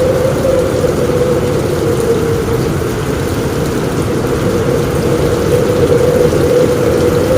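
Steady heavy rain falling on a roof, with a low continuous rumble underneath.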